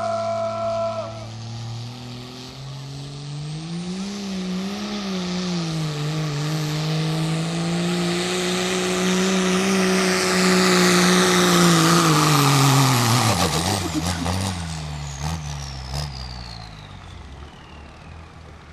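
Turbo-diesel pull truck making a pull: the engine runs up and holds under heavy load, growing louder for about ten seconds, with a high turbo whistle climbing over it. The engine then drops to idle and the turbo whistle winds down in a long falling glide, with a few sharp clicks near the let-off.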